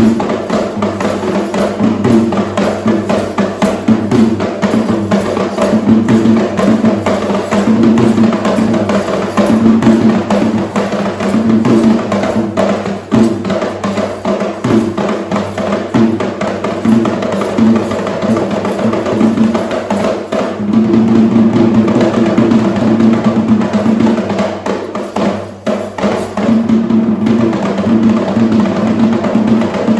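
Traditional Sri Lankan drums played in a fast, dense, unbroken rhythm.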